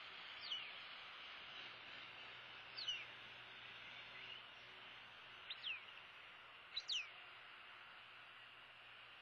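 A bird gives about five short, high chirps that slide downward in pitch, the last ones in quick pairs, over a steady background hiss.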